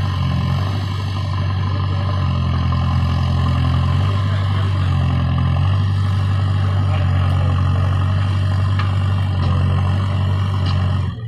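Diesel engine of a backhoe loader or tractor running steadily, its low hum shifting slightly in pitch now and then; it cuts off abruptly at the end.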